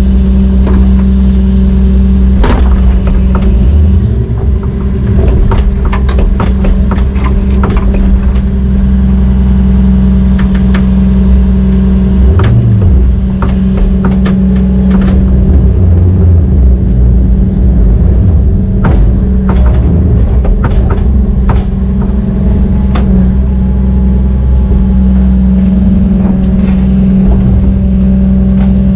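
Heavy diesel engine running steadily under load, with many scattered metal clanks and knocks. The engine note rises and falls briefly about twelve seconds in.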